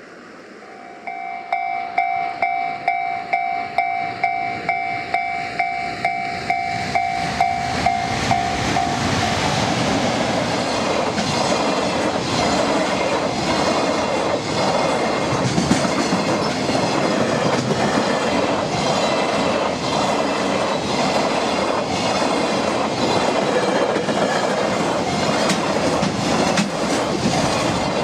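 A warning bell rings in pulses about twice a second for the first nine seconds. Then a JR Freight EF200 electric locomotive and its container train run past, a loud steady rumble with rapid wheel clicks over the rail joints.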